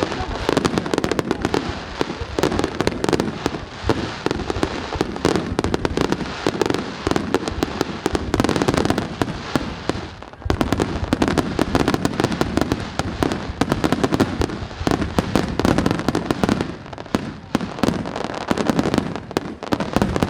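Fireworks display: a dense, rapid barrage of bangs and crackling bursts, with a brief lull about halfway through.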